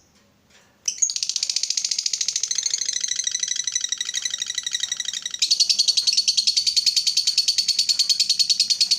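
Lovebird ngekek: a long, rapid, high-pitched chattering trill that starts about a second in and turns louder, with a shift in tone, about halfway through.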